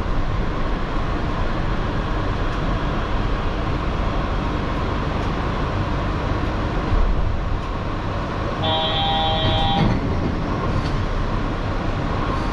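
Yurikamome rubber-tyred automated guideway train running into the station and coming to a stop, heard from inside the car. About eight and a half seconds in, a short electronic chime of several steady tones sounds for just over a second as the left doors are due to open.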